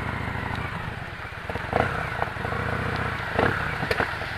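Victory Cross Country's V-twin engine running steadily at low revs, with a few sharp clicks and knocks over it.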